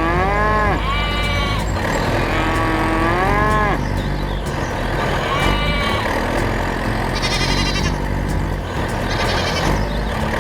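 A steady low engine hum of a mini tractor, with several long pitched calls that rise and fall over it, like bleating. Two higher, buzzier calls come near the end.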